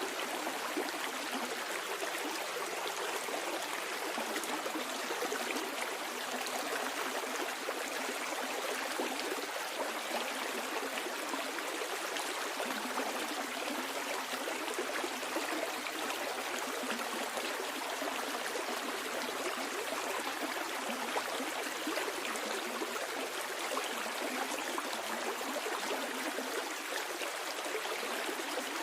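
A small stream flowing and babbling steadily, an even rushing of water with no breaks.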